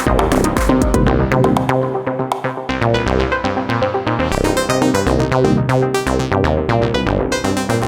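Live improvised electronic techno from an Elektron Digitakt drum machine and an Arturia MiniBrute 2SE analog synth. A driving beat with fast hi-hat ticks runs under a stepping synth bass line. The deep bass drops out briefly about two seconds in, then comes back.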